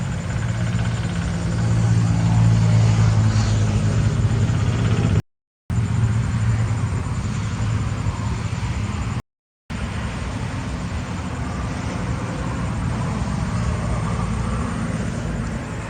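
A steady low engine hum, cut by two brief dropouts to silence.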